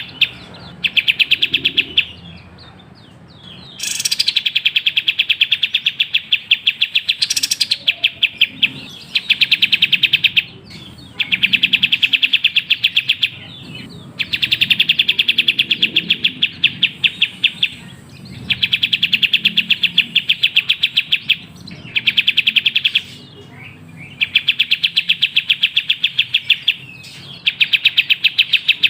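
Kapas tembak bird singing in rapid trilled bouts, fast strings of chirps about two to three seconds long, repeated after short pauses.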